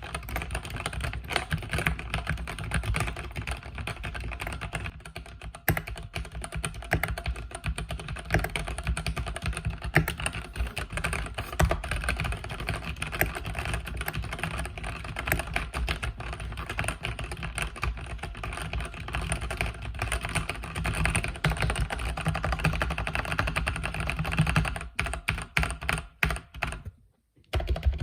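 Continuous fast typing on a mechanical keyboard with red (linear) switches, a dense run of key clicks and clacks, pausing briefly near the end.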